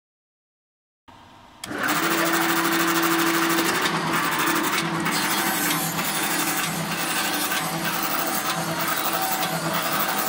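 Disposable wooden chopstick forming and sharpening machine running, a loud, dense, steady mechanical clatter of wood being shaped. It starts abruptly about two seconds in.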